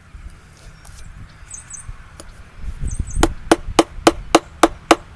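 Mallet driving a carving chisel into a wooden log: a few faint taps, then a little past halfway a quick, even series of sharp strikes, about three to four a second.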